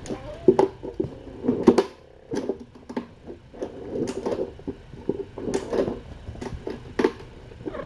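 Irregular soft knocks, taps and rustling, a few sharper clicks among them: handling and movement close to the microphone as the mother cat is petted and pushes about.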